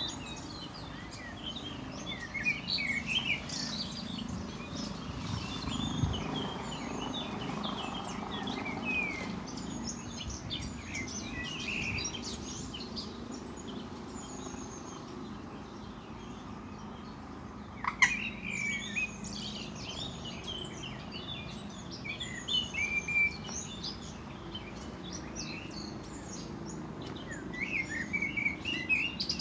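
Several small birds chirping and singing in short, overlapping calls, with one louder sharp call sweeping downward a little past the middle, over a steady low background rumble.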